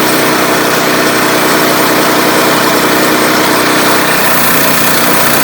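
Portable bandsaw sawmill running steadily, its engine and blade going at speed through an oak log. About four seconds in the sound shifts to a deeper note.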